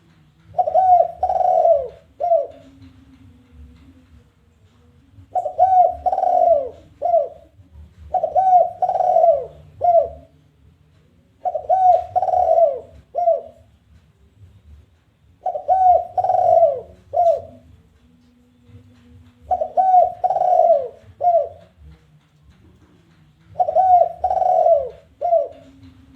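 Spotted dove (tekukur) giving its challenging, territorial coo used to lure other doves. It gives a phrase of three or four coo notes, the middle ones loudest and the last one short, and repeats it about every four seconds, seven times.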